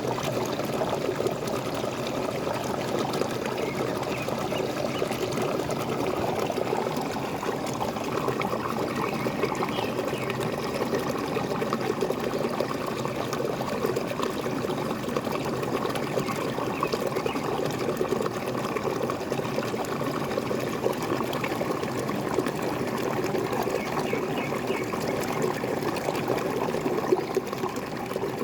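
Water pouring and splashing steadily over a small waterfall, a continuous even rush.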